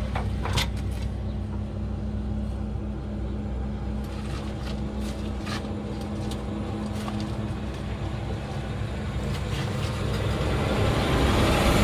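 An engine running steadily with a low hum, a few light clicks over it, growing louder over the last couple of seconds.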